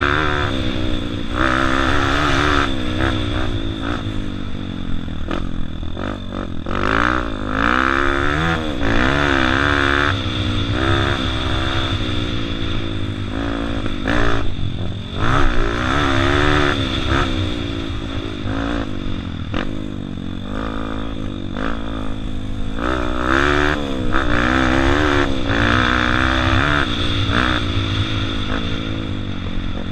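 Honda CRF230 four-stroke single-cylinder dirt bike engine revving up and easing off again and again as it is ridden around a motocross track.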